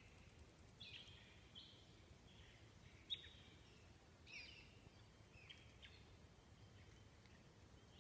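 Faint bird calls, short chirps and downward-sweeping notes coming every second or so, over a low background rumble, with one sharp click about three seconds in.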